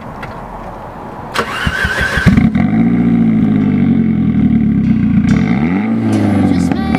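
1995 Saab 900 Turbo's turbocharged four-cylinder, with a straight-piped exhaust, being started. The starter cranks for about a second, the engine catches and settles into idle, then it is revved once near the end, its pitch rising and falling.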